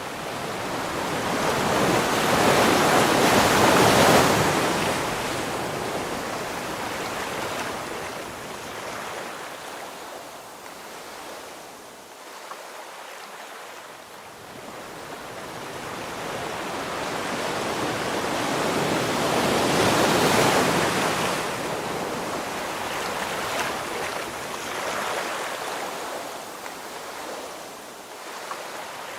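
Ocean waves breaking on the shore. Two slow swells of surf build to a peak, one about four seconds in and one past the middle, and each washes back down to a quieter hiss.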